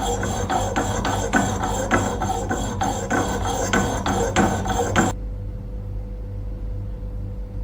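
Repeated sharp metal knocks, about three a second, over the low hum of a running workshop machine. The knocking stops about five seconds in, leaving the steady hum.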